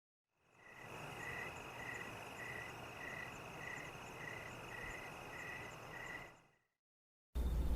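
Rhythmic chirping, about ten evenly spaced chirps at roughly one and a half a second over a steady hiss, fading in just after the start and fading out near the end.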